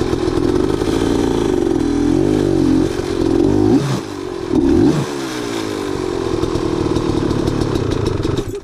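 Dirt bike engine revving up and down in repeated surges of throttle as it climbs a rocky step, dropping away sharply near the end.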